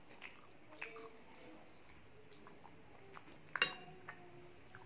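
Close-up eating sounds: soft chewing of yogurt-soaked dahi bhalla with small wet mouth smacks. About three and a half seconds in, a metal spoon clinks sharply against the glass plate, with a brief ring.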